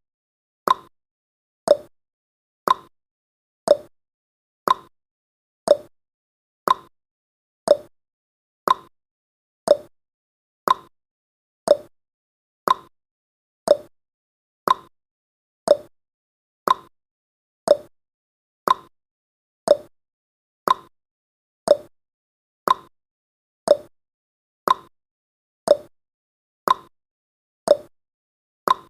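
Countdown timer's clock-tick sound effect: a short click about once a second, alternating between a higher tick and a lower tock.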